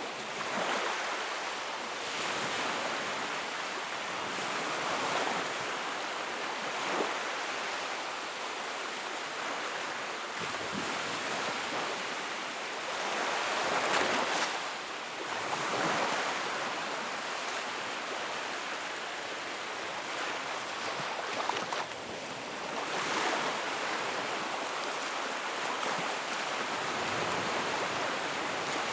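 Sea waves washing in a continuous rush that swells and eases every few seconds as waves break. The biggest swell comes about halfway through.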